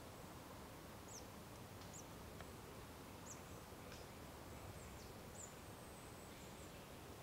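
Quiet woodland ambience with faint, high-pitched chirps of small birds, short calls every second or so.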